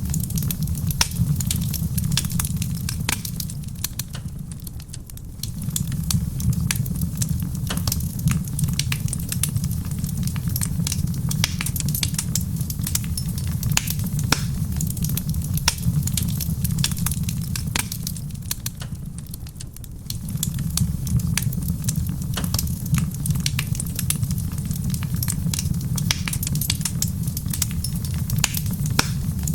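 Wood fire crackling in a stone fireplace, a dense run of sharp pops and snaps over a low steady rumble. The rumble fades out briefly twice, about four seconds in and again near twenty seconds.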